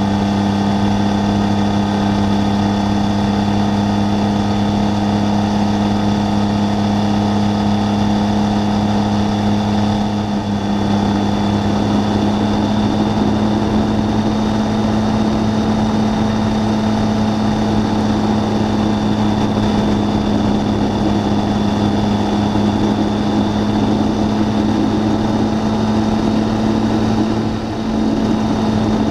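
Triumph Tiger 800 three-cylinder engine running at a steady cruise, heard from on board the motorcycle. The engine note eases briefly twice, about ten seconds in and near the end.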